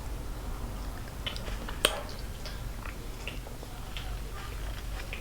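Close-miked chewing and mouth sounds of a person eating chicken wings: scattered small wet clicks, with one sharper snap about two seconds in, over a low steady hum.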